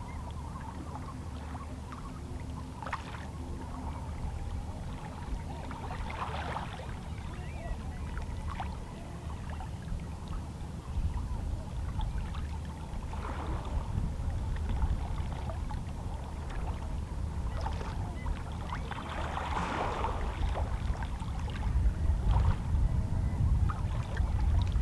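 Small waves lapping against shoreline rocks on a calm sea. A splash comes every few seconds over a steady low rumble that grows louder toward the end.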